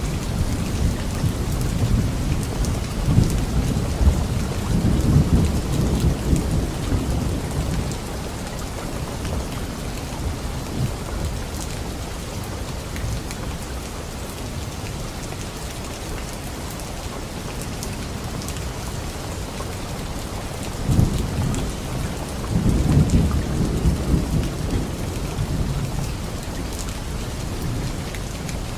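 Light rain falling steadily on leaves, with thunder rumbling in the first several seconds and again about three-quarters of the way through.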